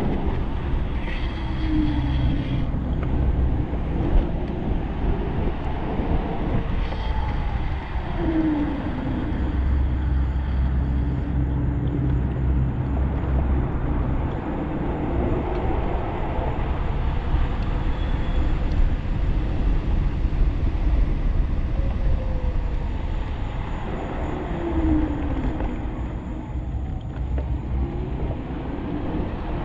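Steady rumble and rush of wind and road noise on a moving 1500-watt home-built e-bike, with a few short whines falling in pitch, about two, eight and twenty-five seconds in.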